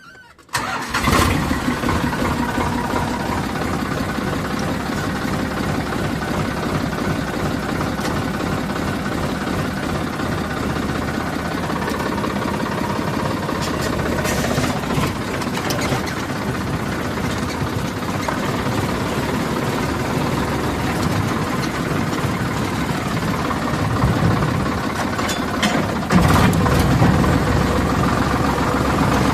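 Diesel engine running steadily and loud, coming in abruptly about half a second in, and growing louder near the end.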